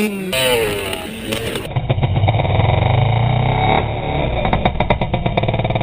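A mini bike's small engine running steadily with a rapid firing beat, dipping briefly about four seconds in. A voice is heard before it cuts in, about a second and a half in.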